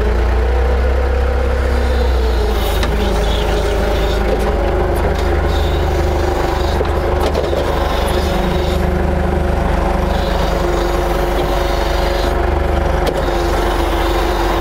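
Forklift truck's engine running steadily as it drives forward with a load of long metal pipes, its pitch rising and falling once in the first couple of seconds.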